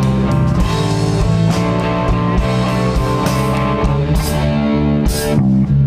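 Live rock band playing an instrumental passage of the song: electric guitars holding chords over bass guitar and a drum kit, with cymbal hits in the second half.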